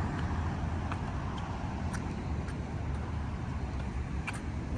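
Steady low rumble of a large vehicle running nearby, with a faint hiss over it and a few faint high chirps.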